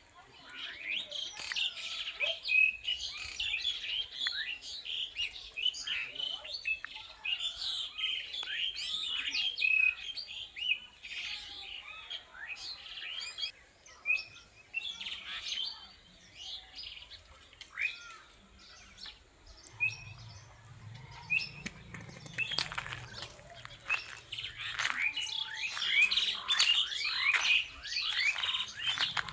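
Several small birds chirping and calling almost without a break, quick high chirps and short sliding notes, thickest near the start and again in the last few seconds.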